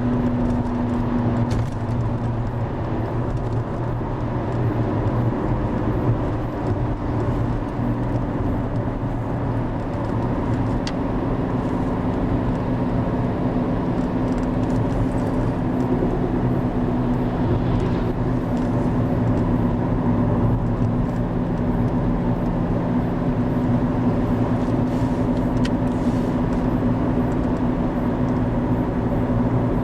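A low engine-like hum with steady pitch, running on over a constant rushing noise, with no clear change.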